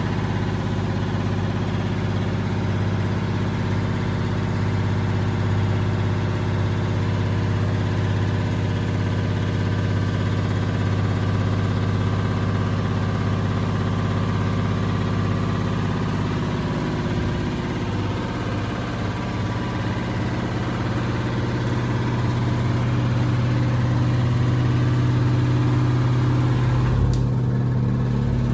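Samsung WD70T4047CE washing machine's drum motor running with a steady hum, its pitch stepping up a little after about 17 seconds as the drum speed changes.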